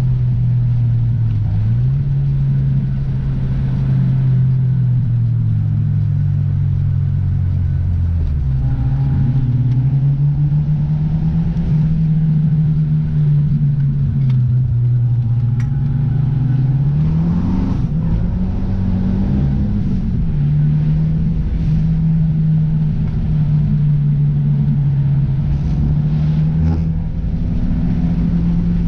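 Car engine running while driving, with steady road rumble underneath. The engine note drifts up and down with the throttle, and climbs and falls back once about two-thirds of the way through.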